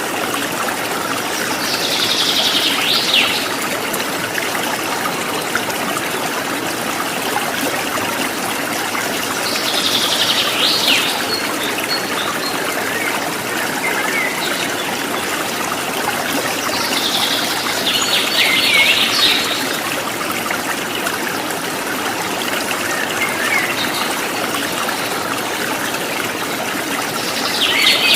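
Steady running water trickling in a stream, with a short bird song phrase repeating about every eight seconds and fainter chirps in between.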